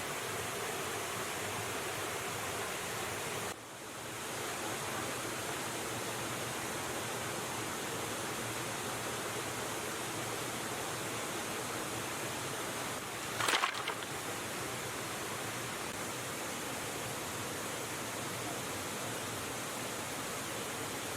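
Rushing river water, a steady even noise, with one brief sharp sound just past the middle.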